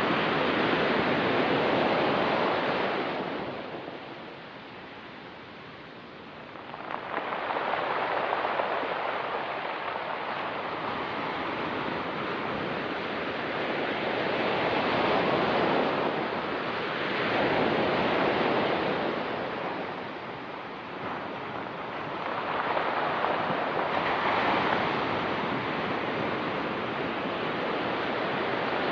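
Ocean waves breaking and washing up a rocky pebble beach, in slow surges several seconds apart, with a quieter lull between sets early on.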